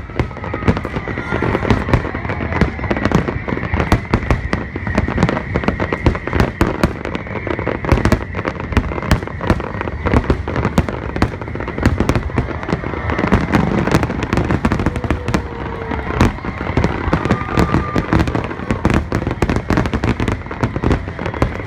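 Fireworks going off in dense, rapid succession: many sharp bursts and crackling reports overlapping without a break.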